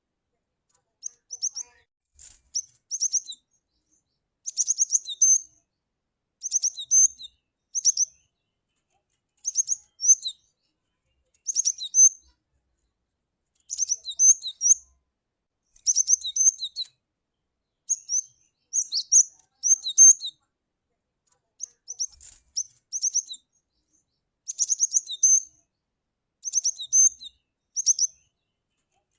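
Cinereous tit (glatik batu) calling: short bursts of high, quick chirps, repeated every one and a half to two seconds with silence in between.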